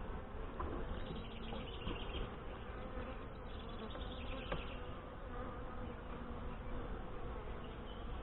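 Honey bees buzzing steadily around an open hive, a continuous hum with a faint steady tone.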